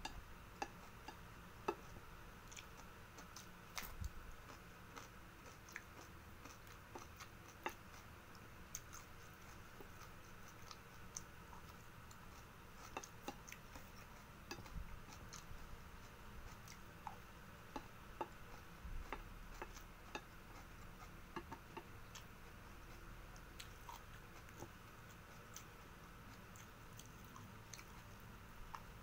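Close, quiet chewing of fried rice with small mouth clicks and smacks, and now and then the tap or scrape of a wooden spoon on the plate, over a faint steady hum.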